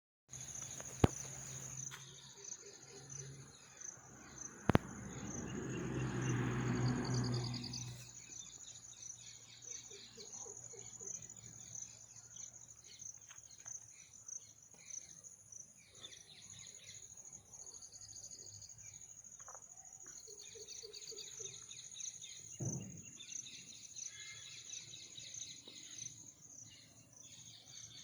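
Outdoor ambience of insects and birds: a steady high insect drone with trains of pulsed chirps over it and occasional bird calls. Two sharp clicks come in the first five seconds, and a rushing swell of noise rises and fades between about four and eight seconds in.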